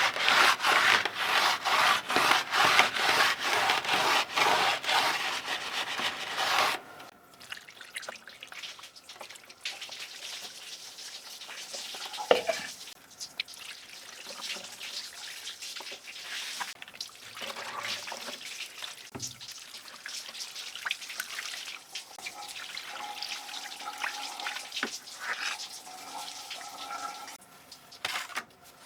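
Keyboard parts being scrubbed with brisk, even back-and-forth strokes, about three or four a second. The scrubbing stops about seven seconds in, followed by quieter scattered taps, drips and handling sounds with a little water.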